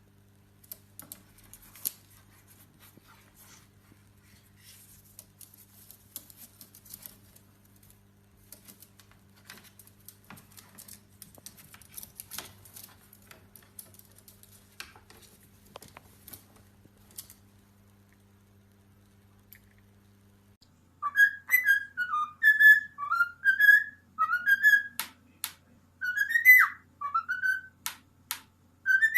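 Parrot whistling a string of short notes that slide up and down, with sharp clicks between them; the whistling starts about two-thirds of the way in. Before it there are only faint scattered clicks and taps.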